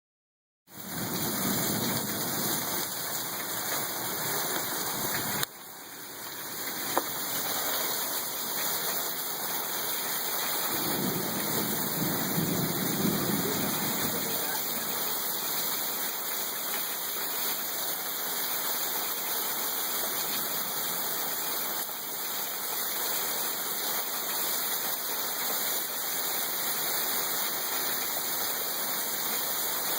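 Heavy thunderstorm rain pouring steadily, with two spells of low rumble, one near the start and one about eleven to fourteen seconds in, and a single sharp click a few seconds after a sudden drop in level.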